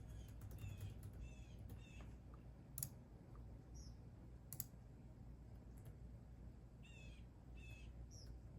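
Faint songbird chirping outside, in short repeated phrases: a few near the start and more near the end. Two sharp clicks come about three and four and a half seconds in, over a low steady hum.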